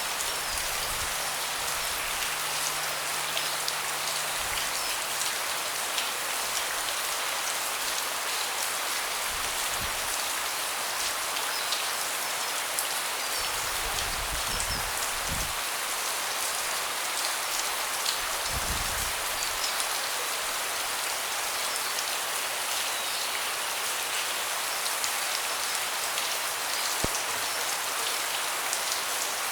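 Steady rain falling on a deck: a dense, even hiss with many small sharp drop ticks scattered through it.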